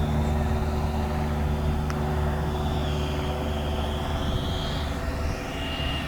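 Electric ducted fan of an RC model jet in flight: a high whine that wavers in pitch, rising and then dropping sharply about five seconds in, over a low steady hum that fades near the end.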